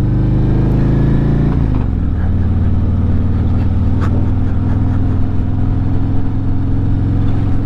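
Harley-Davidson touring motorcycle's V-twin engine under way, rising slightly in pitch, then dropping about a second and a half in before running steadily. Heard through a mic tucked inside the rider's helmet.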